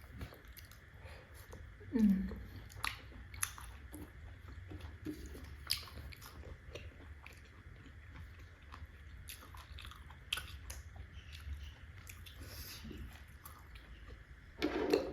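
Close-up chewing of momo dumplings: soft wet mouth smacks and scattered small clicks, with a brief voiced murmur about two seconds in.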